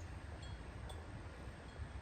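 Wind chimes tinkling faintly, a few short clear notes, over a steady low rumble of wind.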